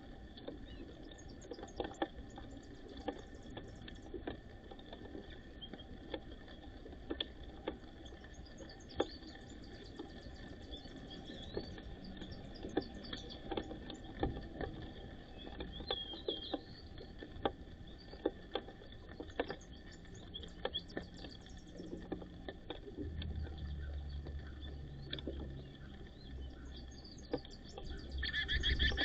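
White-crowned sparrows feeding: scattered sharp taps of beaks pecking seed, with small high chirps and tweets between them. Near the end a louder, sustained call comes in.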